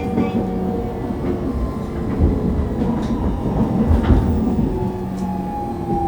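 Running noise inside a Fukuoka City Subway 2000 series car with a Hitachi GTO-VVVF inverter. Steady motor and inverter tones sound over a low rumble of wheels on rail, with a couple of thumps from rail joints.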